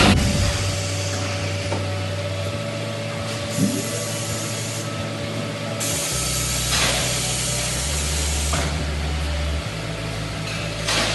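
Factory machinery running: a steady mechanical hum and hiss with low tones that shift in steps and a brief swell of noise about two-thirds of the way through.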